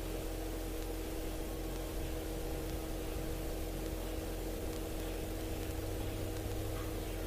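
Piston-engine helicopter in flight, heard from the cockpit: a steady hum with a constant droning tone over low rumble and hiss.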